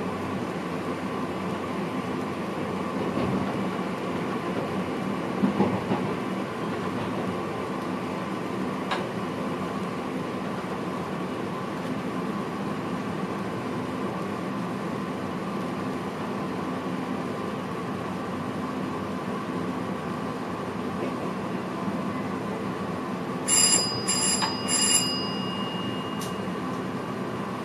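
Steady running noise inside the cab of a VIRM double-deck electric train, with a constant hum. About three-quarters of the way through, a high ringing signal sounds three times in quick succession, the last note trailing on for a moment.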